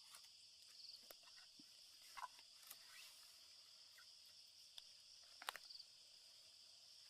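Faint night chorus of crickets or other insects, a steady high-pitched trill, with a few scattered sharp clicks and snaps, the loudest a quick pair about five and a half seconds in.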